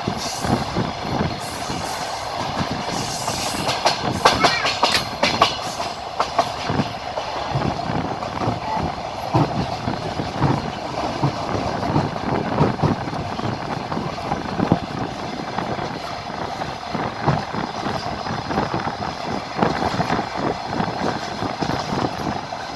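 Train wheels clattering over the rail joints under a steady running rumble, heard from aboard a moving passenger train.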